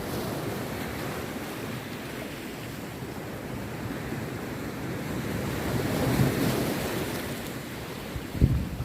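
Rough sea surf breaking and washing on a beach, a steady rush that swells about six seconds in, with wind on the microphone and a brief low thump near the end.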